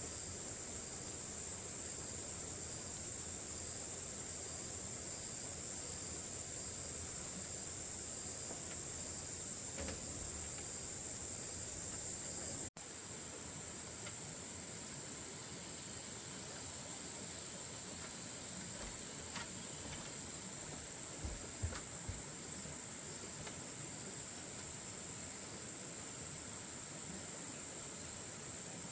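Steady high-pitched drone of insects calling, unbroken except for a split-second gap about halfway through, with a few faint low knocks in the second half.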